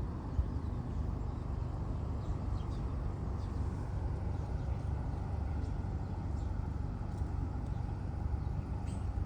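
Steady low rumbling noise, with faint, short, high bird chirps scattered through it.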